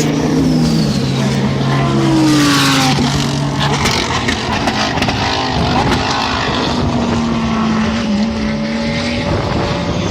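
Race car engines running hard on a circuit, several cars passing with their engine notes rising and falling; one note climbs and falls about two seconds in.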